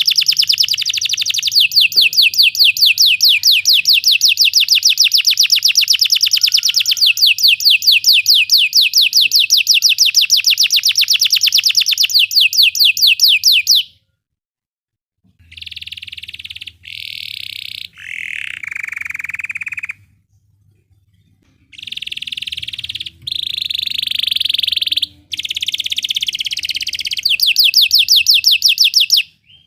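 Belgian canary singing. A long, fast, even rolling trill runs for about fourteen seconds and breaks off. After a short pause come shorter, varied song phrases with brief gaps between them.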